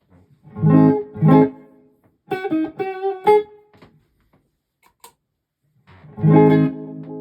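Electric guitar played through a pedalboard and amp: two strummed chords, a short run of picked single notes, then another chord left ringing near the end.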